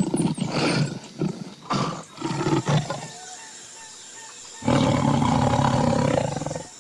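Big-cat roaring: several short roars in the first three seconds, then one long, even roar of about two seconds near the end.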